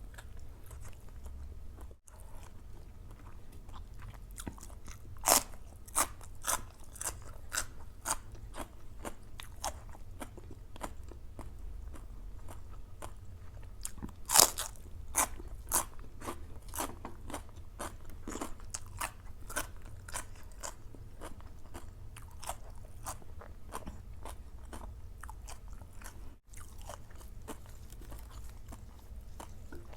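A person chewing and biting crunchy food close to the microphone, a run of sharp crunches and wet chewing, with the loudest crunches about five seconds in and again near the middle.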